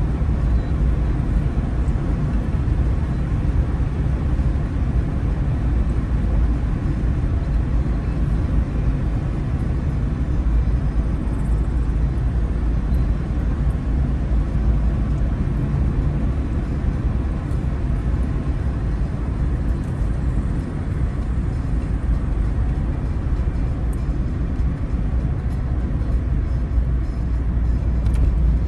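Car driving at a steady pace, its engine and tyre-on-road noise making an even low rumble as heard from inside the cabin.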